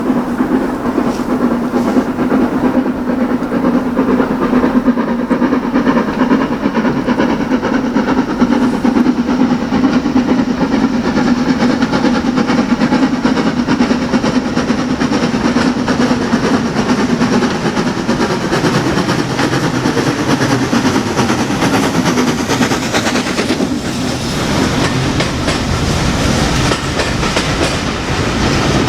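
A steam-hauled train on a heritage railway running along the line, a steady loud sound from its wheels and carriages on the track.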